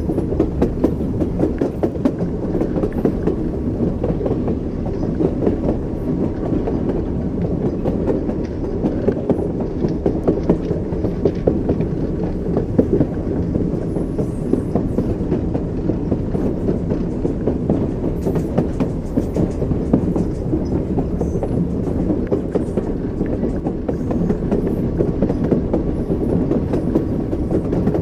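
Train wheels rolling over rail joints with a steady clickety-clack over a continuous low rumble of a moving railway carriage.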